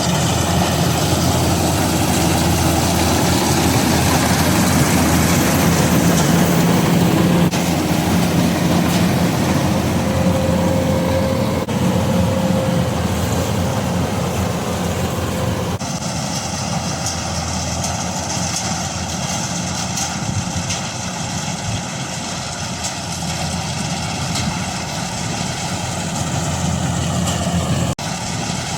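Combine harvester engine running steadily in a rice paddy. The sound changes abruptly a few times, and from about halfway it turns thinner and higher-pitched.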